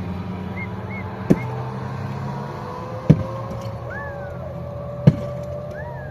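Three sharp blows of something striking, about two seconds apart, over a steady low hum, with a few short high chirps.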